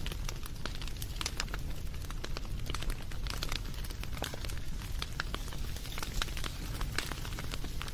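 Wood campfire burning with frequent irregular sharp crackles and pops over a steady low rumble of the flames.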